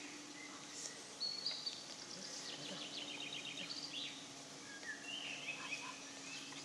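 Birds chirping faintly in the background: a few short high calls, a quick trill of repeated notes and some gliding notes. Under them runs a steady low hum.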